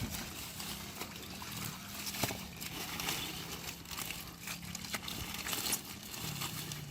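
Hands sloshing and dabbling in shallow muddy river water, with scattered small splashes and clicks, over a steady low hum.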